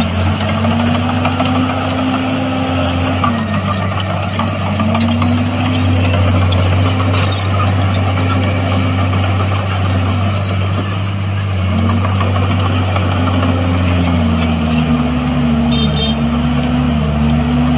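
Heavy diesel engine of earthmoving machinery running steadily, its pitch dipping and rising again every few seconds as the load changes.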